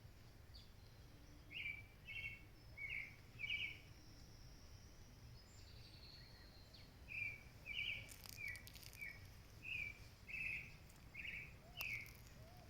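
A bird calling in two bouts of short, quick chirps, about four notes and then, after a pause of a few seconds, about ten more, over a faint low outdoor background noise.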